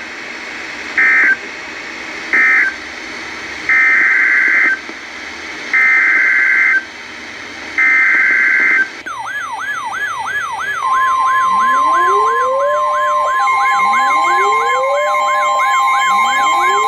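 Emergency Alert System SAME digital data bursts: three short screeching bursts, then three longer ones about a second each. About nine seconds in, a layered mix of electronic sirens starts, with a fast repeating yelp and slower rising whoops every couple of seconds, joined about two seconds later by a steady high tone.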